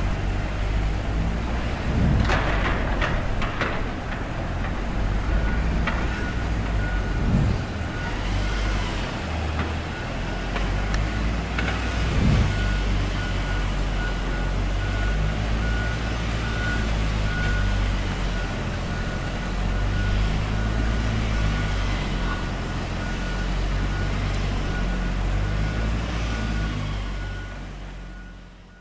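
Construction-site heavy vehicle with its engine running and a reversing alarm beeping steadily from about five seconds in, with a few knocks in the first half; the sound fades out near the end.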